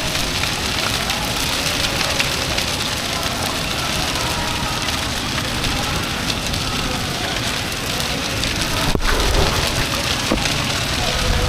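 A large bonfire burning: a steady, dense crackling of flames, with an occasional sharper crack.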